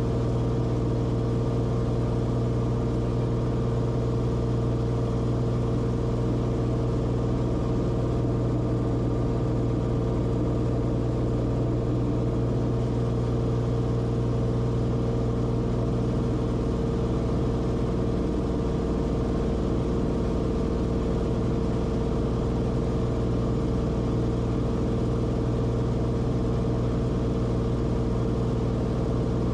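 Cessna Corvalis TTX's turbocharged six-cylinder engine and propeller droning steadily in cruise, heard in the cockpit. The strongest low tone of the drone weakens a little past halfway through.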